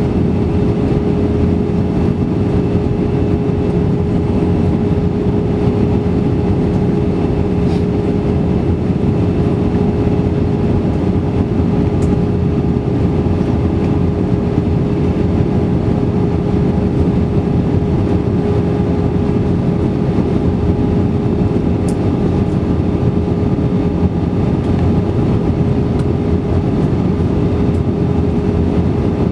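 Steady cabin noise of an Airbus A320-200 in flight: engine and airflow drone with one constant tone running through it, unchanging throughout.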